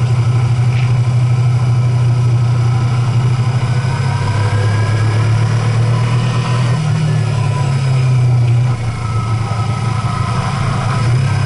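Vehicle engine running steadily while driving, a continuous low drone that shifts slightly in pitch around the middle and dips briefly in loudness about two-thirds of the way in.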